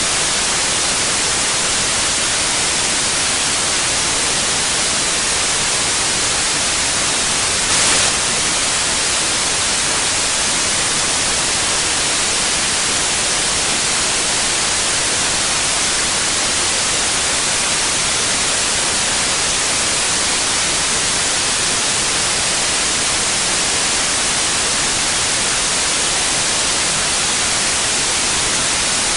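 Steady electronically generated white noise: an even, unchanging hiss weighted toward the high end, with a momentary slight bump in level about eight seconds in.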